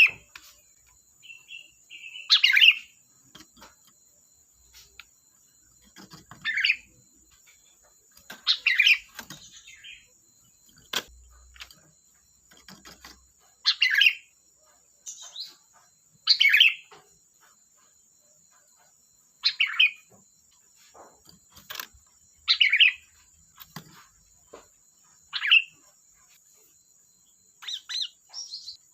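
Sooty-headed bulbul (kutilang) singing: short, bright, bubbling phrases repeated every two to three seconds, about nine in all.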